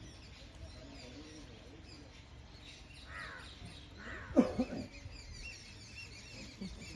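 Birds chirping and calling throughout, with two loud calls that fall steeply in pitch, about three seconds and four and a half seconds in.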